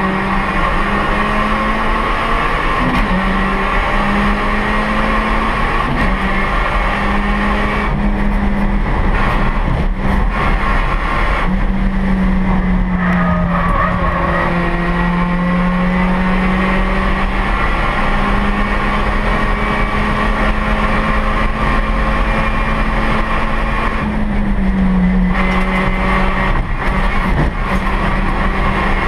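Honda Brio race car's 1.2-litre L12B i-VTEC four-cylinder engine heard from inside the cabin, running loud at a fairly steady pitch and dipping briefly about four times.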